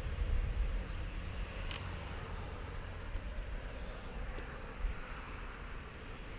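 Quiet outdoor background with a steady low rumble on the microphone and faint short high chirps. A single sharp click comes about two seconds in.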